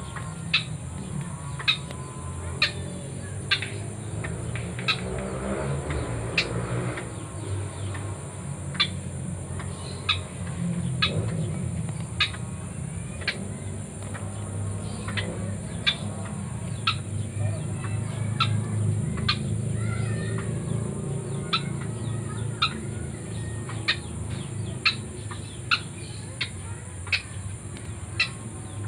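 A bird giving short, sharp clucking calls over and over, about one and a half a second, evenly spaced. A steady high-pitched drone and low rumbling noise run underneath.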